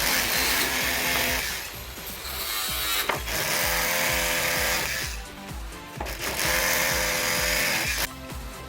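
A power tool running in three bursts of one to two seconds each, with short pauses between them, over background music with a steady beat.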